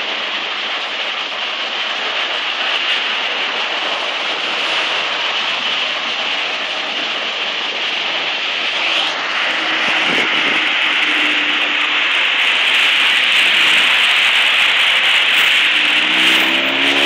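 Traffic driving through a flooded street: a steady hiss of tyres through standing water, a little louder in the last few seconds. Near the end a vehicle engine rises in pitch.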